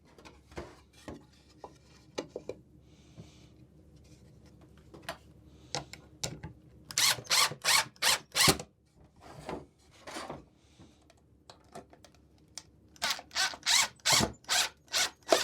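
Screws being pre-driven into a wooden birdhouse roof piece: a string of clicks and knocks from the tool and the wood, with two quick runs of louder strokes about halfway through and near the end.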